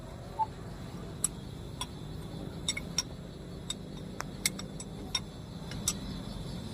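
Volvo excavator's diesel engine running at idle, a steady low hum, with about a dozen sharp, irregular ticks over it.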